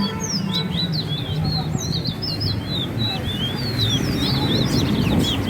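Caged songbirds singing in a bird race: quick, overlapping chirps and twitters, one song after another, over a low murmur of crowd voices.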